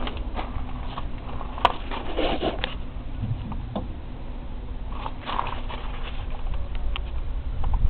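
British Seagull 40+ Mark II outboard motor running slowly in a bin of water after some 20 years out of use, a low steady rumble with scattered sharp clicks.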